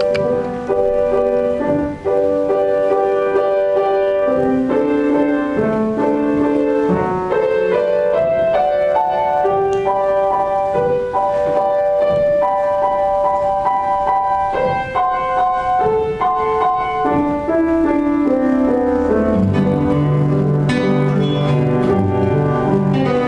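Instrumental ensemble music: a melody of long held notes over a lower accompaniment, with a keyboard-like sound prominent. The bass part grows fuller in the last few seconds.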